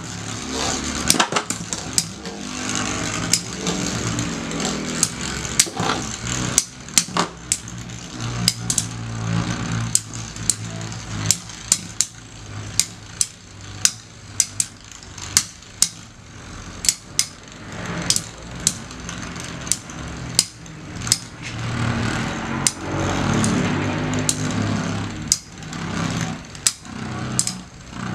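Two metal Beyblade spinning tops, Basalt Horogium and Lightning L-Drago, whirring as they spin in a stadium and clashing again and again with sharp clicks at uneven intervals.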